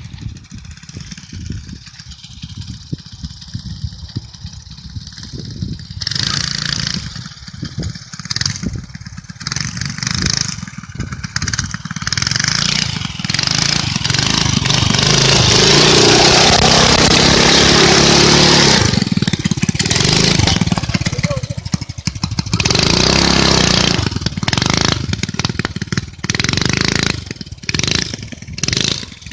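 Arctic Cat minibike engine being ridden hard: the throttle opens and closes repeatedly, the engine held at high revs for several seconds in the middle.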